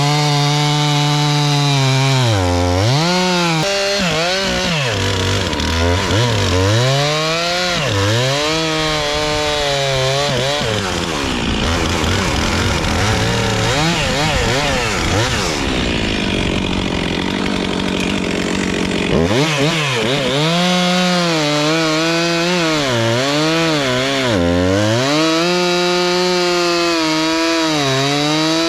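Two-stroke chainsaw cutting through dirt-caked stumps, the engine note repeatedly rising and dipping as the chain bites and frees, with a rougher, steadier stretch of about eight seconds in the middle. The dirt on the stumps wears down the chain.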